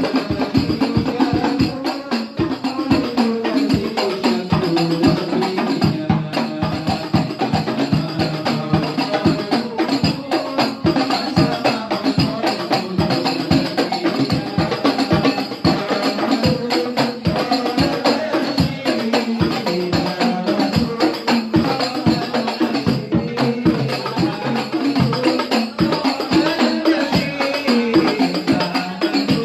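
Banjari percussion ensemble playing: rapid, dense darbuka drumming with jingling frame-drum or tambourine strokes, keeping a busy rhythm throughout.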